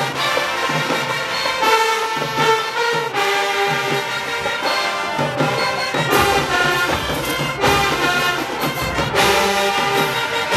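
HBCU show-style marching band playing loudly, with the brass carrying held notes. The drums hit harder from about six seconds in.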